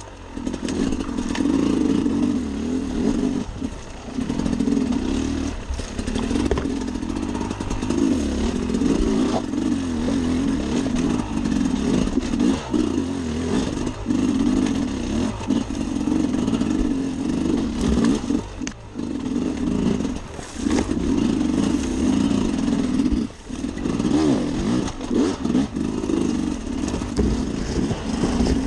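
Sherco SE 300 Factory's two-stroke single-cylinder engine revving on and off under load on a rocky enduro trail, dropping away briefly several times as the throttle is closed and then picking up again.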